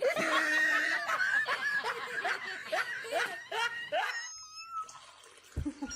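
A person laughing in a run of short repeated bursts for about four seconds, then dying away.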